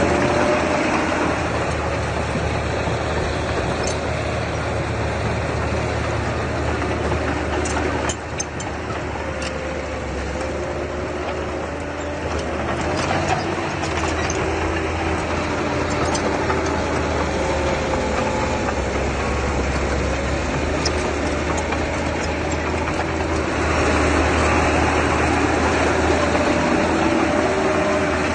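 Diesel engine of earthmoving machinery running steadily, its pitch wavering as the load changes. There are scattered light metallic clicks through the middle, and the engine gets louder near the end.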